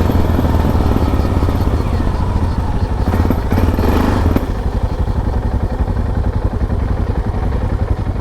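Motorcycle engine running while riding, a loud low throbbing pulse; it gets a little quieter about four seconds in.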